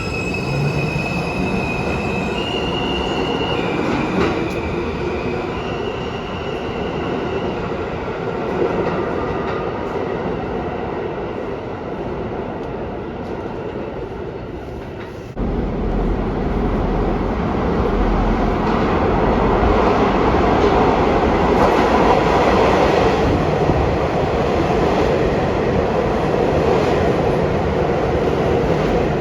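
New York City subway train running on the rails, a steady rumble of wheels and cars. In the first few seconds its traction motors whine in tones that step up and down in pitch, and about halfway through a louder, deeper rumble sets in suddenly.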